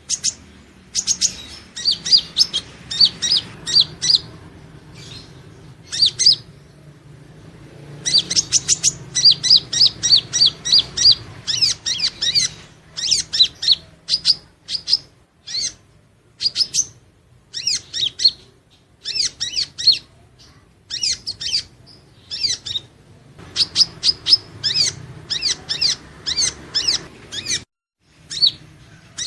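Purple-throated sunbird (Leptocoma sperata) singing: quick runs of thin, high-pitched chirping notes in bursts, broken by short pauses.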